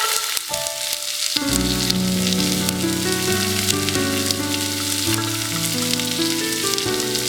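Food sizzling and crackling in a frying pan over a campfire, under background music that grows fuller with bass notes about a second and a half in.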